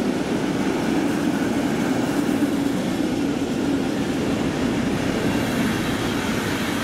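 A train running past on the tracks, a steady rolling noise with no breaks.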